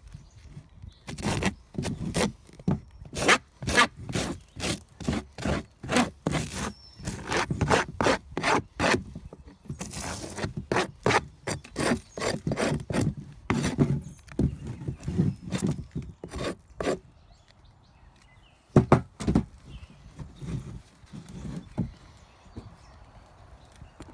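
Dead brood comb being scraped off a wooden beehive frame: quick, regular scraping strokes for most of the stretch, then a quieter spell with two louder strokes.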